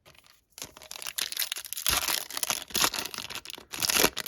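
A foil trading-card pack wrapper crinkling and tearing as it is ripped open: a dense crackle that starts about half a second in.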